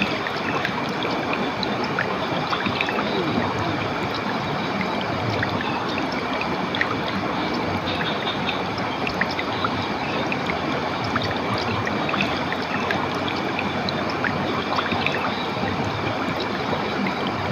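Running water of a stream, a steady rushing and trickling with many small splashes.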